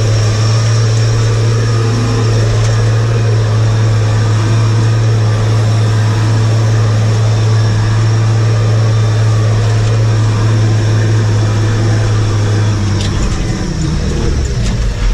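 Large engine running steadily at a constant speed with a low, even hum; its note changes about two seconds before the end.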